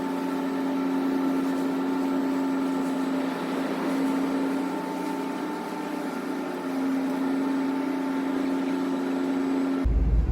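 Steady drone of a large car ferry's engines and machinery, a hum with several fixed tones. It cuts off suddenly near the end and gives way to a louder low rumble.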